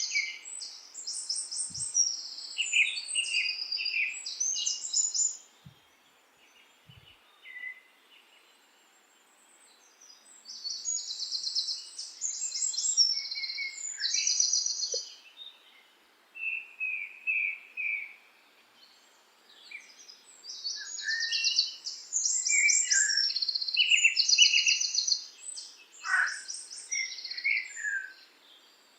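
Songbirds singing in bursts of rapid trills and chirps, high-pitched, with gaps of a few seconds between bursts.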